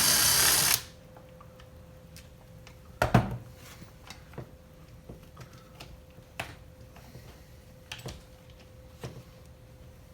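A handheld power driver runs steadily for just under a second, unscrewing a fastener on a chainsaw's starter housing. It is followed by a few scattered clicks and knocks of small parts and tools being handled, the loudest about three seconds in.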